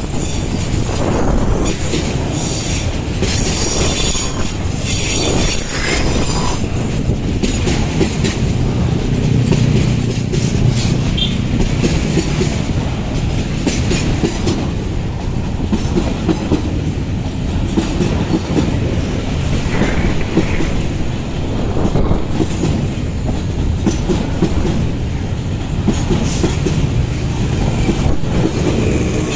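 Coal train wagons rolling past, wheels clacking over the rail joints with some metallic wheel squeal, loud and continuous.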